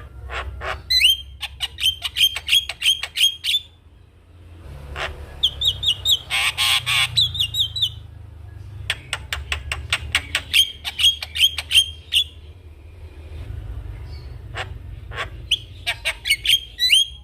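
Javan myna singing in four bouts of rapid sharp clicks and short rising whistled notes, with a harsh rasping squawk in the second bout.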